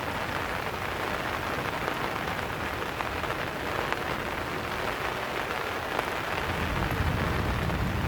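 Steady rain falling, an even hiss with scattered drop ticks, and a low rumble swelling near the end.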